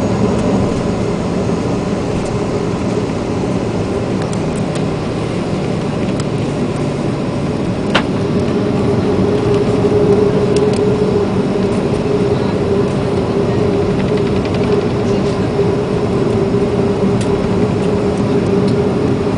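The CFM56 jet engines of a Boeing 737-400 running steadily, a low hum growing stronger about eight seconds in. A single sharp click comes at about the same moment.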